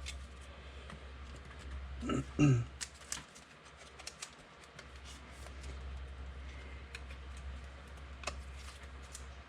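Faint scattered light clicks and taps over a steady low hum, with a brief murmur of voice about two seconds in.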